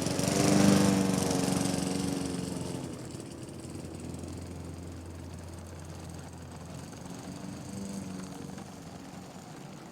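A small engine running, loudest about a second in and then fading away.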